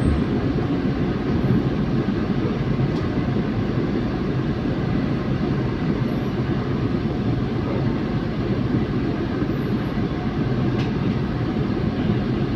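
Steady rumble of a train, an even low noise with no distinct knocks or changes.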